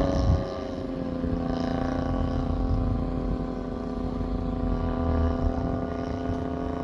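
Engine of a 92-inch AJ Aircraft Laser Z200 RC aerobatic plane in flight, a steady drone whose pitch shifts only slightly.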